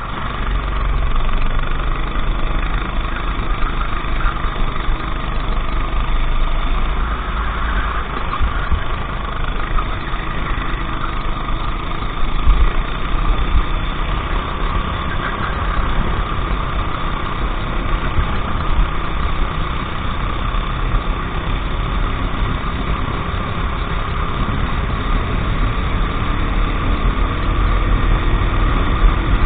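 Go-kart engine running steadily at racing pace, with a low rumble of wind and vibration under it; its pitch swells and dips a little as the kart takes the corners.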